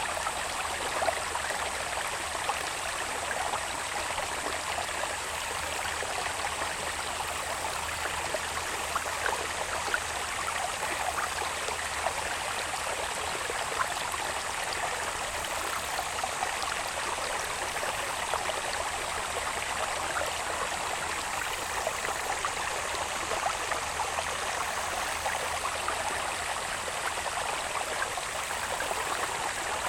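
Small irrigation channel babbling steadily with a light splashing, under a constant thin, high-pitched drone of summer insects.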